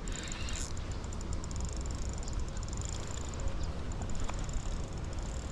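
Fishing reel being wound in against a hooked fish, a fast fine ticking, over a low rumble of wind on the microphone.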